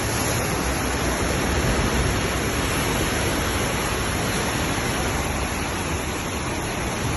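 Steady, unbroken rush of water from a flash-flood storm, an even noise with no single events in it.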